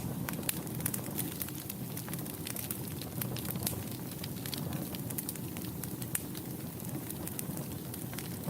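Fireplace fire crackling: a steady low rustle of flames with frequent sharp, irregular pops and snaps.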